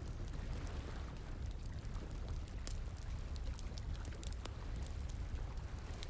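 Wood fire crackling, with scattered sharp pops and snaps, over the steady rushing of flowing water.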